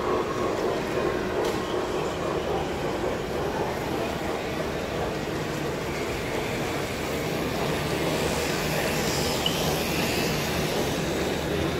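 Model train running on a layout's track, over a steady background hubbub.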